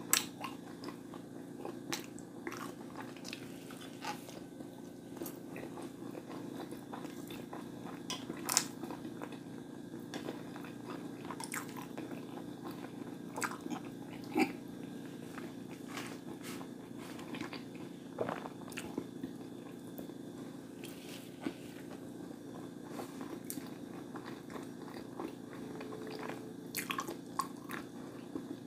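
Close-miked chewing and biting of fried food, with crunching bites and short irregular mouth clicks and smacks over a steady low hum.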